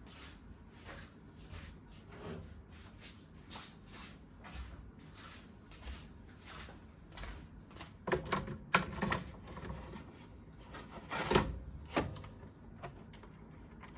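Clunks and knocks of a test-equipment plug-in module being handled and slid into a TM500-series mainframe. The loudest knocks come about eight to nine seconds in and again around eleven to twelve seconds, with faint light clicks before them.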